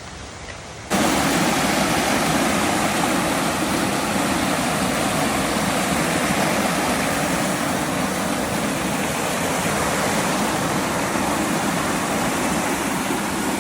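Rushing water of a mountain valley stream, a loud steady rush that cuts in suddenly about a second in.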